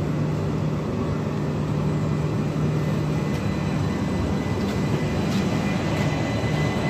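Class 377 Electrostar electric multiple unit pulling away from the platform: a steady low electric hum over the rumble of the moving train, getting slightly louder as it goes.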